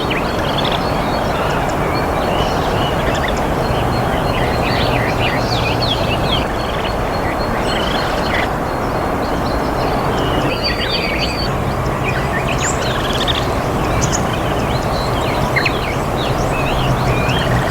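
Many short, high bird chirps and calls, scattered irregularly over a loud, steady outdoor background noise with a faint low hum.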